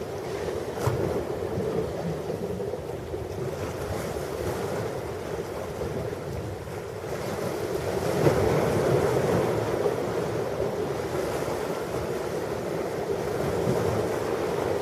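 Ocean surf washing onto a beach, with wind on the microphone; the surf swells louder about eight seconds in.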